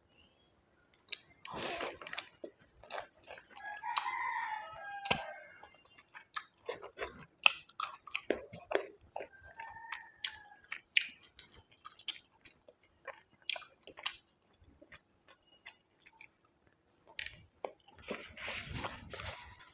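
A person eating: wet chewing and mouth clicks with occasional crunches, and a denser stretch of crunching near the end.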